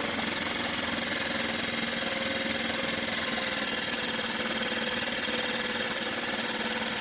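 Small Mercury 4–5 hp outboard motor idling steadily while its idle speed is being tuned, after it was brought back from a no-start.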